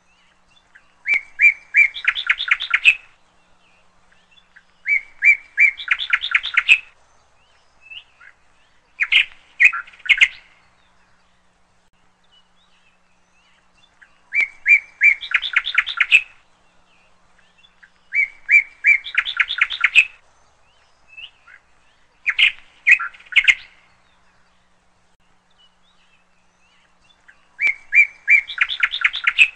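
A bird singing the same short song over and over, about every four seconds: each phrase is a couple of clear whistled notes running into a quick string of notes, with pauses between.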